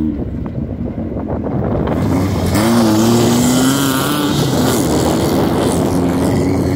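Volkswagen Beetle off-road race car's engine revving up and down as the car pulls away. From about two seconds in, a loud hiss joins it.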